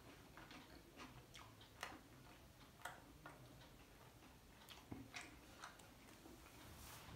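Faint, wet mouth clicks and smacks from a person chewing a mouthful of soft flatbread with the mouth closed, coming at an uneven pace.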